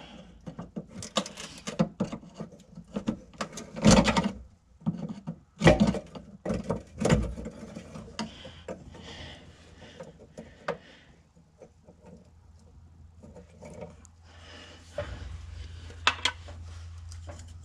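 Small clicks, knocks and clatters of hands and a flat-head screwdriver working the plastic retainer clips off a fuel filter's quick-connect lines, with a few louder clattering knocks in the first half. A low steady hum comes in near the end.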